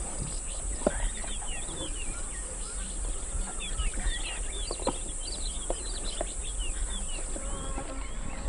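African bush ambience: many small birds chirping and calling over a steady high-pitched insect drone.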